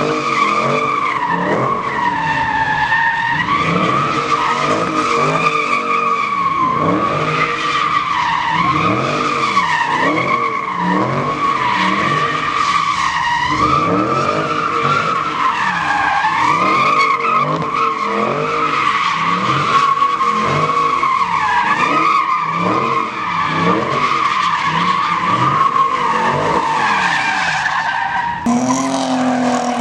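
Vehicle tyres squealing continuously in a long burnout or drift, the squeal's pitch wavering up and down, with the engine revving underneath. The sound changes abruptly near the end.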